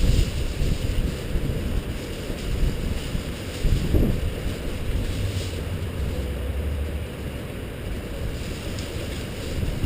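Steady rain falling, with wind gusting on the microphone. A low rumbling surge comes about four seconds in.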